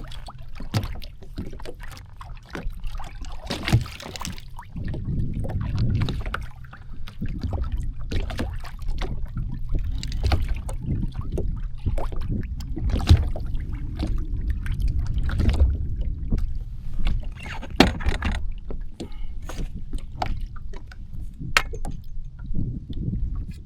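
Water sloshing and lapping against a small floating craft's hull, with a low rumble and scattered sharp knocks throughout.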